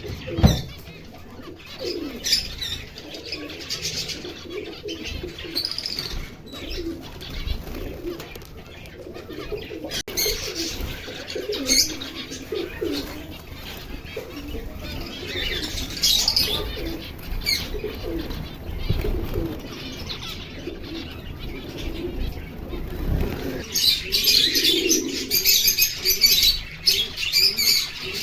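Finches chirping and twittering in short high calls, mixed with lower-pitched warbling calls and occasional sharp clicks or flutters. The high chirping becomes busier and louder near the end.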